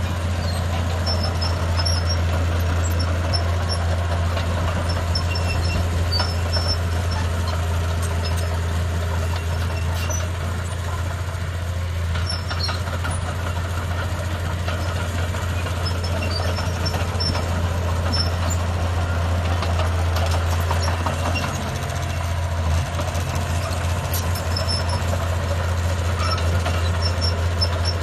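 Diesel engine of heavy earthmoving machinery running steadily with a deep, constant drone, with faint high ticks scattered over it.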